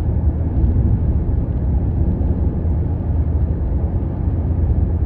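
A car being driven: a steady low road and engine rumble with no change in pitch.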